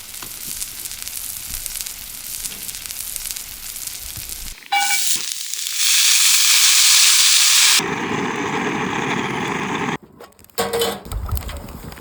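Beef sizzling and searing over a wood fire, heard in a string of short cuts with fire crackle in the hiss. The loudest, hardest sizzle lasts about two seconds near the middle, and there are a few clicks and knocks near the end.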